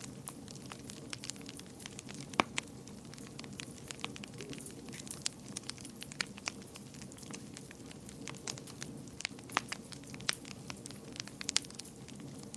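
Wood fire burning in a fireplace, with irregular crackles and sharp pops over a steady low roar of flames; the loudest pop comes about two seconds in.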